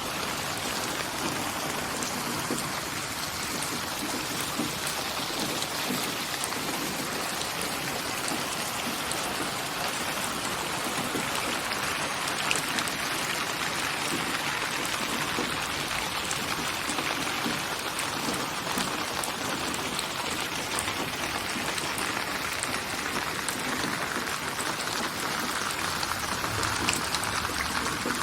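Steady rain falling, an even hiss of many fine raindrop ticks on a surface.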